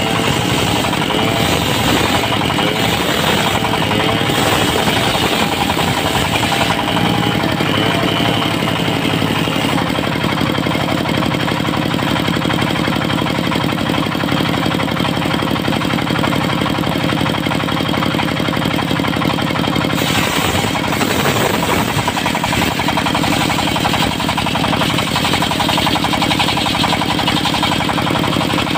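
Diesel-powered mobile circular sawmill running steadily with a loud engine drone and fast pulsing, the saw at work on trembesi wood.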